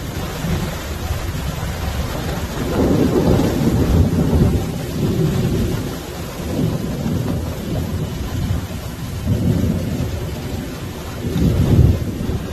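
Heavy rain hissing steadily under low rolling thunder that swells and fades several times, loudest near the end.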